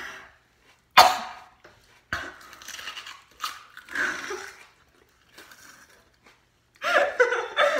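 Crunch of teeth biting into a raw whole onion about a second in, then a smaller crunch and wet chewing sounds. Laughter starts near the end.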